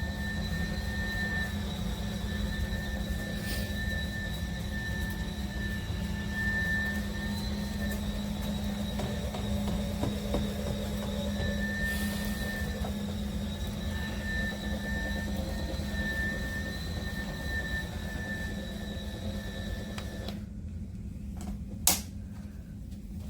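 Dual-motor cordless electric spin mop running: a steady low hum with a thin high whine as its pads spin on the floor. Near the end the whine cuts out, and a sharp click follows about a second later.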